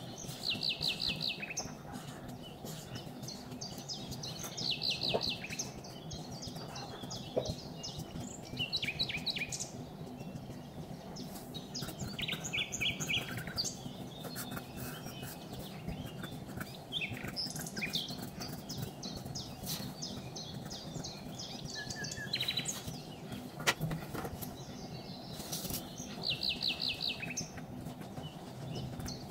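Small birds chirping, with short rapid trills of high notes repeating every few seconds, over a steady low background noise.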